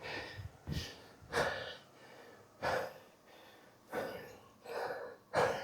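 A man panting hard after an all-out conditioning round, about seven heavy gasping breaths in and out through the mouth, out of breath and recovering.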